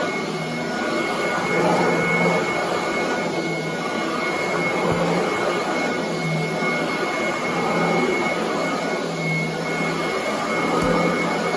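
Commercial upright vacuum cleaner running over carpet: a steady rushing noise with a high motor whine, slowly rising and falling in level.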